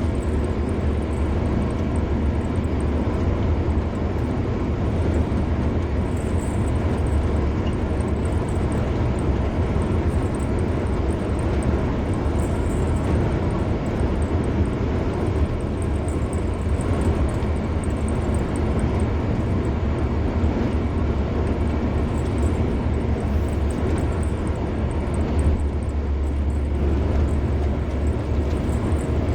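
A car travelling at steady highway speed: continuous tyre and road noise over a low engine and drivetrain rumble, unchanging throughout.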